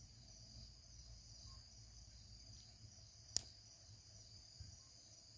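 Night crickets trilling steadily in a high-pitched chorus, one part of it pulsing about twice a second, with a single sharp snap a little over three seconds in.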